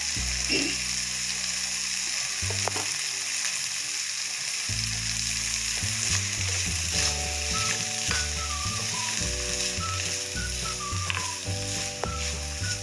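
Chopped onion and potato sizzling as they fry in oil in a pan, with a spatula stirring them through, over soft background music.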